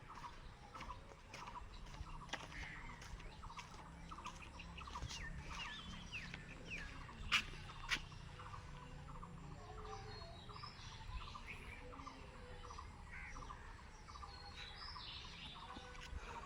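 Birds chirping, with short calls sweeping in pitch, over a regular ticking repeated two or three times a second. Two sharp clicks, the loudest sounds, come about seven seconds in, half a second apart.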